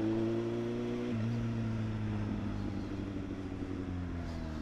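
Motorcycle engine running under way: its note climbs slightly, drops in pitch about a second in, then winds down slowly as the bike eases off.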